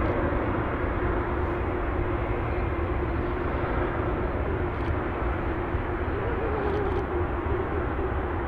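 Jet airliner engines running, a steady drone with a constant hum over a low rumble.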